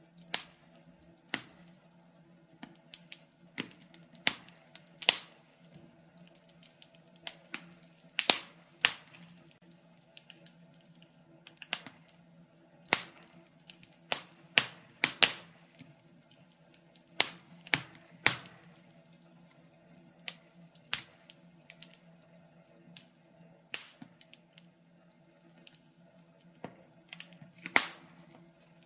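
Wood fire crackling in a fireplace: sharp, irregular pops and snaps, a few a second at most, over a faint steady hum.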